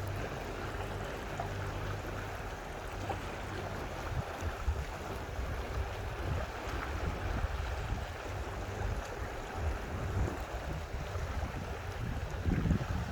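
Wind buffeting the microphone as a steady, gusting low rumble, with a faint low hum in the first few seconds.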